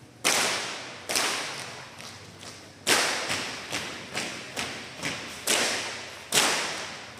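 Drill squad making sharp percussive strikes in unison as part of a marching-drill routine, about ten in an uneven rhythm. A few are much louder than the rest, and each rings on with a long echo.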